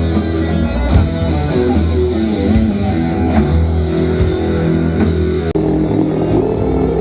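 Rock music with guitar and drum kit, with a brief break about five and a half seconds in before the playing carries on.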